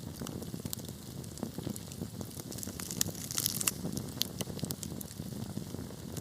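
Wood fire burning in a fireplace: a steady low rumble of flames with irregular sharp crackles and pops, busiest with a brief hiss a little past halfway.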